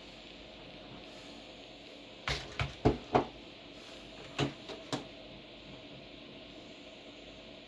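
Steady running hum and hiss of a desktop PC's fans. Over it come seven sharp clicks or knocks in two quick clusters, four and then three, a little over two seconds in.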